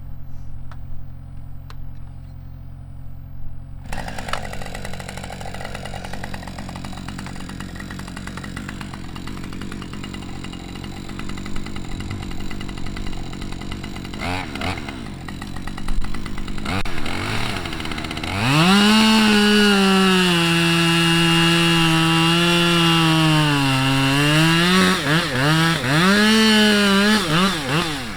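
Two-stroke chainsaw running at idle with a few quick revs, then held at full throttle and cutting into a standing tree. The engine note sags under the load of the cut, wavers as the throttle is worked, climbs back up and drops off at the end.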